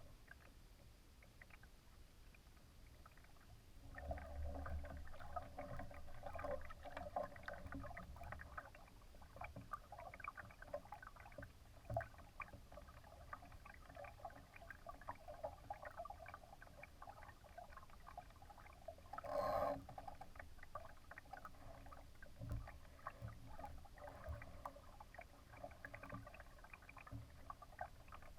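Water splashing and gurgling against the hull of a Laser sailing dinghy under way, an uneven run of small slaps and trickles over a low rumble. It picks up about four seconds in, with one louder burst about twenty seconds in.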